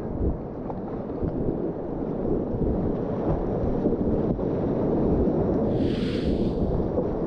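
Whitewater kayak run: the steady rumbling rush of river rapids, muffled and buffeting on the microphone. One brief bright splash comes about six seconds in.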